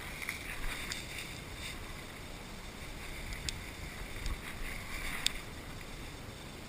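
Steady outdoor background noise with a few faint sharp clicks, the loudest about five seconds in.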